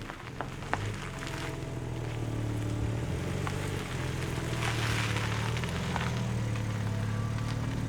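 BMW M3 Touring's twin-turbo straight-six engine running at a fairly steady pitch while driving, with a hiss that swells briefly about five seconds in.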